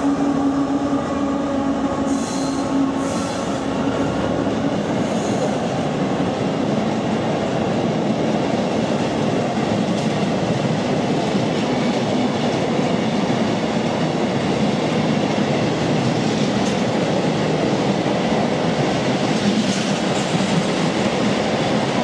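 Govia Thameslink Class 319 electric multiple unit running through the station, a steady loud rumble of wheels on the rails, with a few brief high squeals between about two and five seconds in.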